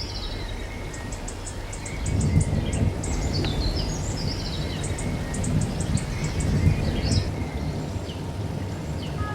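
Small birds calling: quick high chirps and stepped, falling runs of notes, repeated several times, over a low rumble that swells about two seconds in.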